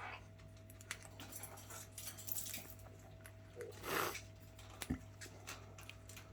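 Pet birds moving about and calling faintly: scattered small clicks and a short soft call about four seconds in, over a steady low hum.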